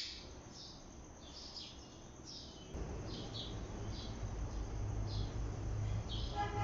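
Ringneck parakeet giving a string of short, high chirps every half second or so. A low steady hum comes in about a third of the way through.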